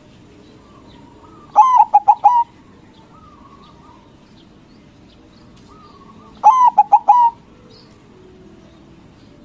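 White zebra dove (perkutut) singing its cooing song. There are two phrases about five seconds apart, each a quick stuttering run of coos ending in a longer note.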